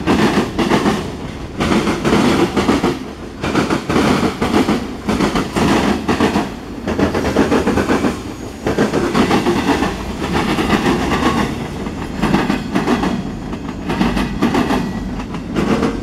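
Freight cars of a mixed freight train rolling past close by, steel wheels clacking over rail joints in quick clusters as each car's trucks go by, over a steady rumble.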